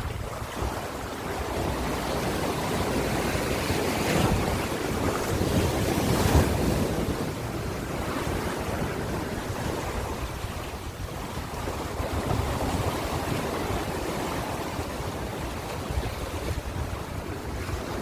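Ocean surf: waves washing in and breaking in slow swells, the loudest about six seconds in, with a low rumble of wind on the microphone.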